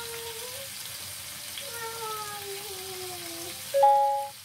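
Chicken and vegetable skewers sizzling in oil in a frying pan, a steady hiss. Over it there is a long falling hum with overtones, and near the end a short, loud, steady tone that is the loudest sound.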